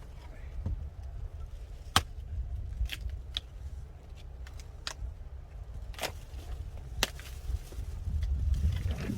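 Firewood being worked: a handful of sharp, irregularly spaced wooden knocks and clacks, the loudest about two seconds in, over a low rumble of wind on the microphone.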